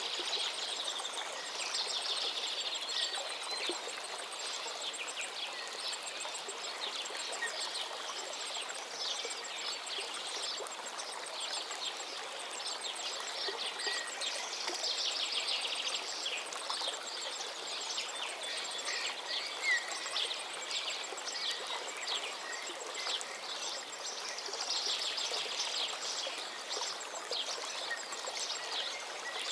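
Many birds chirping and twittering without pause, high and rapid, with busier flurries every few seconds, over a steady rushing background.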